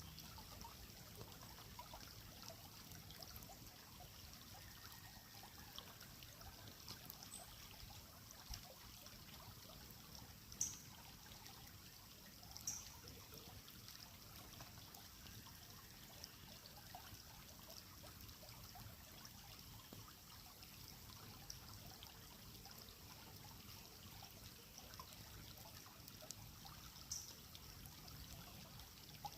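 Faint creek water trickling steadily, with a few short high chirps, three of them standing out.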